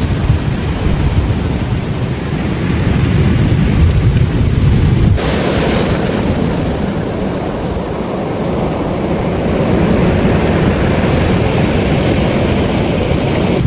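Ocean surf washing on a beach, with wind buffeting the microphone as a low rumble. About five seconds in the sound changes abruptly: the wind rumble drops away and the hiss of the waves comes forward.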